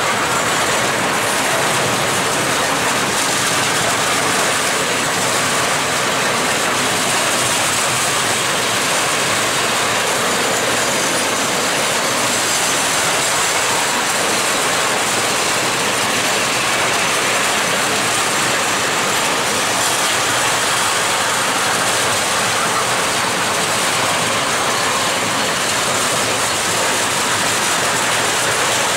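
Freight train of open-top gondola wagons rolling past close by, a steady noise of wheels on the rails that goes on without a break.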